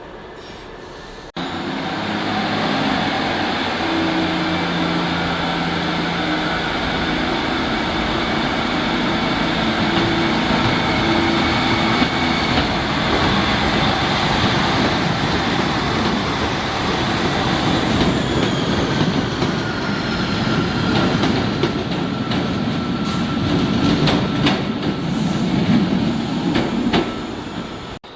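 A train running close by at the platform: a steady mix of motor tones and wheel noise, with a high whine that falls in pitch about two-thirds of the way through and a run of rail clicks near the end. It starts and stops abruptly.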